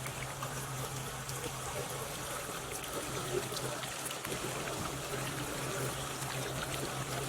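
Water trickling and splashing steadily from a stainless steel water fountain, with a steady low hum underneath.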